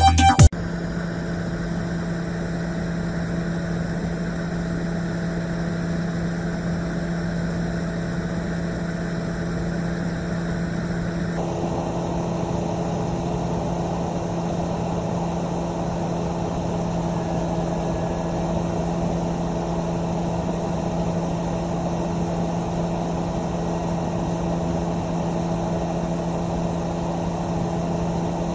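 Steady vehicle engine hum, holding one pitch throughout, with the higher hiss dropping away about eleven seconds in.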